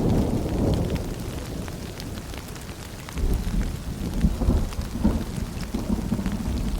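Steady rain with scattered drops, under a low rolling thunder rumble that fades over the first seconds and builds again about three seconds in.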